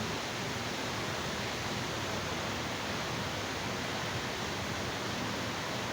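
Steady, even hiss of background noise with no other sound.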